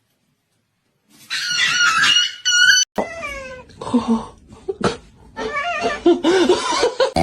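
A cat meowing repeatedly, starting about a second in: a series of short calls, several of them falling in pitch.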